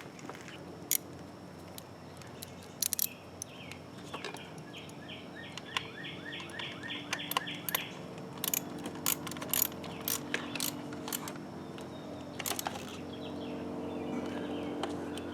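Scattered sharp clicks and clinks of parts and hand tools being handled under the hood while a coil pack is seated and its connector plugged in. A rapid run of about three chirps a second comes in about 4 s in and stops near the 8 s mark, over a low steady hum.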